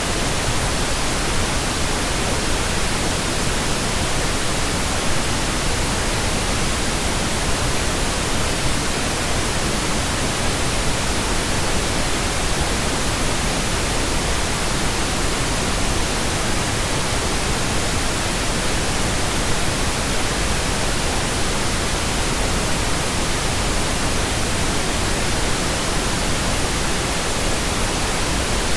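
Steady computer-generated pink noise: an even hiss spread across all pitches, unchanging throughout.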